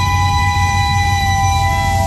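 Train horn sounding one long sustained chord, several steady tones held together over the low rumble of a diesel locomotive.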